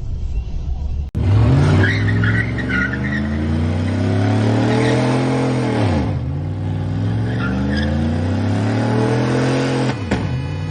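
Car engine running hard, its pitch climbing and falling, with two sharp drops in pitch about six and ten seconds in.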